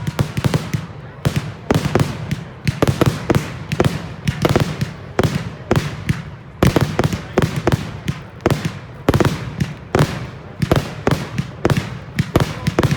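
Fireworks display: aerial shells bursting in rapid, irregular succession, several bangs a second, each with a short echoing tail.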